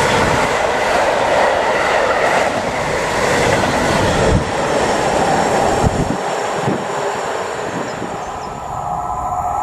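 Train running past on the rails: a steady loud rumble and rush of wheels on track, with a few sharp knocks from wheels over rail joints.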